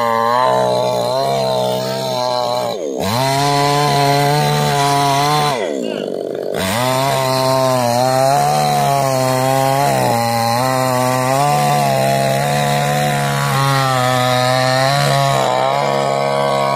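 Chainsaw engine running at high revs, cutting into wood. Its pitch drops sharply and recovers twice, about three and six seconds in, then wavers as the chain works through the cut.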